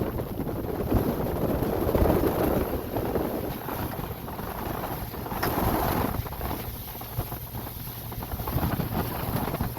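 Wind buffeting the microphone over the steady rumble of a boat under way at sea.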